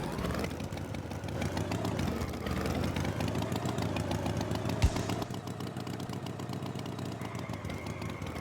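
Cartoon tractor engine sound effect running with a fast, even pulsing, and a single thump about five seconds in.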